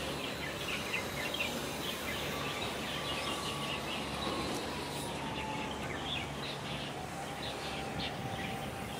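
Small birds chirping in quick, scattered calls over a steady low outdoor rumble, with a faint long tone slowly falling in pitch.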